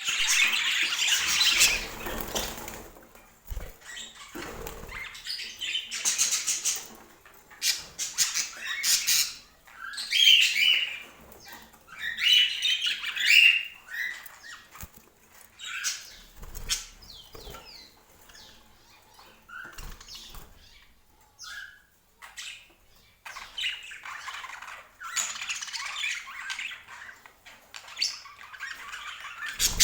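Pet budgerigars chirping and chattering in short, rising and falling calls, with scattered clicks and noisy bursts of wing flapping near the start and again toward the end.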